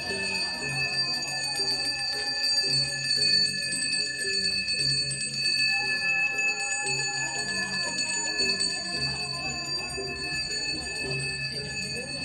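A Balinese priest's hand bell (genta) ringing continuously in one steady shimmer, over ceremonial music with a low pulse about once a second.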